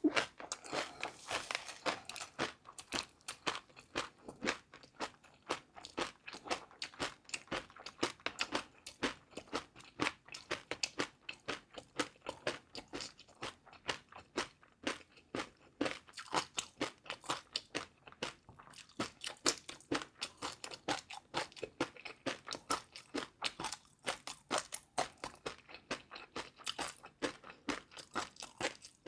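Close-miked crunchy chewing: a person eating crisp food, with a quick, uneven run of sharp crunches several times a second.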